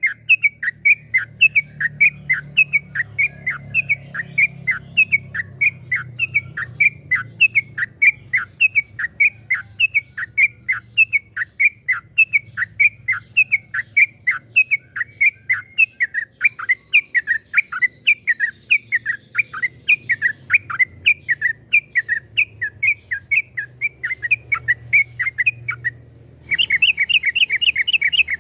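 Yellow-vented bulbul (trucukan) singing a long, fast run of short downward-sliding chirps, about four a second, which keepers call 'ropel panjang'. Near the end it switches abruptly to a denser, quicker string of notes.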